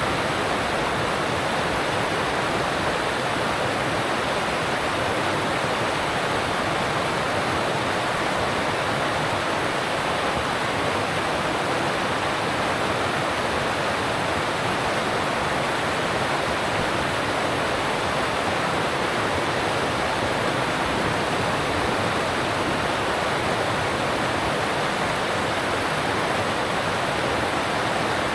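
Alpine mountain stream rushing over rocks, a steady, even rush of water.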